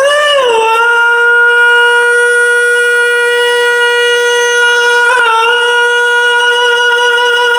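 A person singing one long, steady, high held note with no words, with a small scoop in pitch at the start and a brief wobble about five seconds in.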